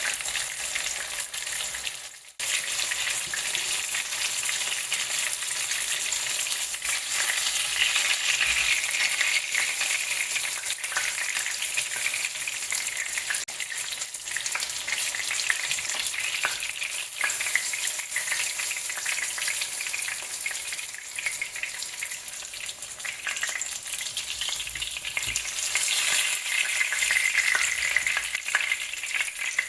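Snapper deep-frying in hot oil: a steady, dense sizzle and crackle that briefly drops out about two seconds in.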